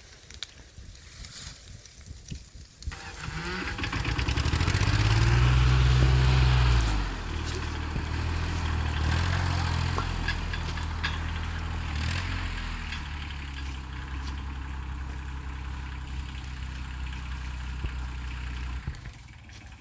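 Tractor engine running up to a loud, heavy run about three seconds in, then dropping suddenly a few seconds later to a steadier, lower-pitched run that eases off near the end.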